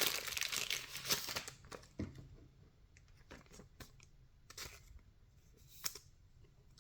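Baseball trading cards being handled and flipped through by hand: a dense paper rustle for about the first second and a half, then scattered light taps and slides of card against card.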